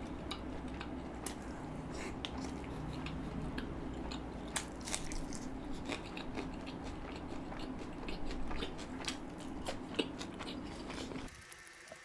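Close-miked chewing of a mouthful of malai seekh kebab dipped in mint chutney: scattered soft, wet mouth clicks and smacks over a steady low room hum. It drops to near silence just before the end.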